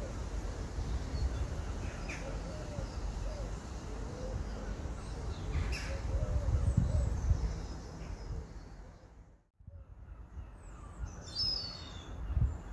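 Garden birds calling over a steady low rumble, with a cluster of high chirps near the end. The sound drops out almost completely for a moment about nine and a half seconds in.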